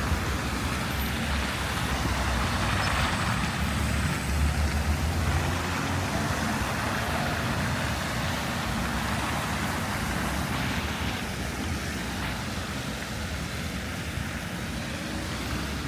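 City road traffic: a steady rumble of engines and tyre noise, swelling about four seconds in and easing off slightly toward the end.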